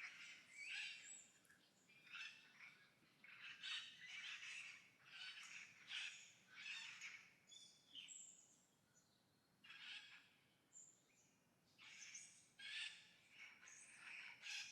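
Faint, AI-generated bird calls: a run of short, harsh chirps and squawks about one to two a second, with a couple of brief pauses.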